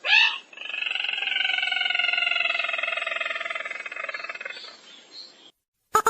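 Recorded call of a sintar merah used as a bird lure: a sharp opening note, then a long trill of about five seconds that slowly falls in pitch and fades near the end.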